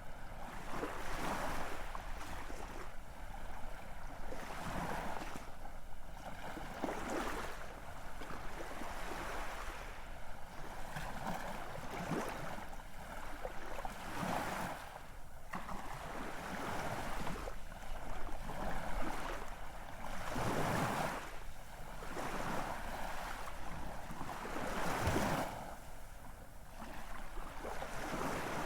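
Ocean waves washing in, a continuous surf hiss that surges and eases every couple of seconds.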